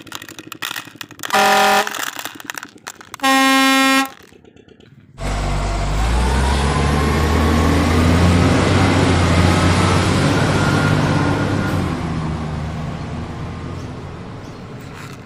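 A vehicle horn honks twice, briefly, then a heavy vehicle's engine starts up loud and runs with a slight rising whine, slowly fading away.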